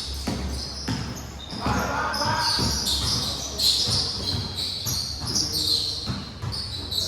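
Basketball game in a large indoor gym: repeated thumps of the ball bouncing on the court, mixed with short high-pitched squeaks and the echo of the hall.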